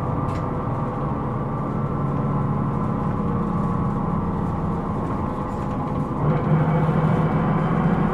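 Hino Rainbow II non-step bus's engine and drivetrain running, a steady drone with several held tones. About six seconds in it grows louder and stronger as the engine pulls harder.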